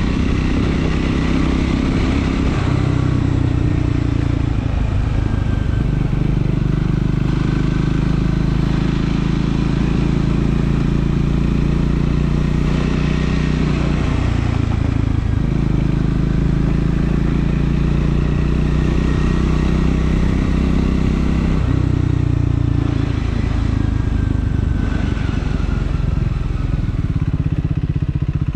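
Triumph Scrambler 400 X's single-cylinder engine running under way, its note stepping up and down several times as the rider works the throttle.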